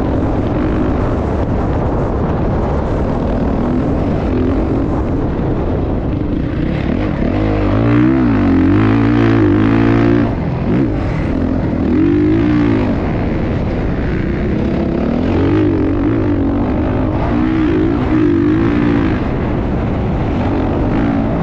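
Motocross dirt bike engines revving up and down again and again over a constant rush of noise, loudest about eight to ten seconds in.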